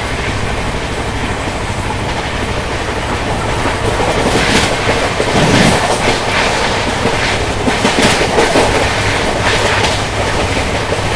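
Mewar Express passenger train running at speed, its coach wheels clattering over the rail joints over a steady low rumble. The clatter grows louder and busier about four seconds in.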